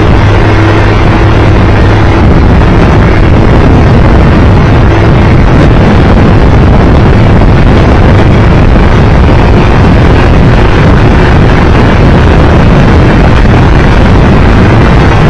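Triumph Tiger Explorer 1200 motorcycle on the move: a steady engine drone mixed with loud wind rush on the microphone.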